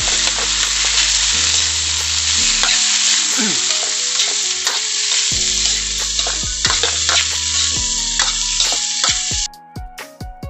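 Sliced coconut heart sizzling in hot oil in a wok while a metal spatula stirs and scrapes the pan. The sizzle cuts off suddenly near the end.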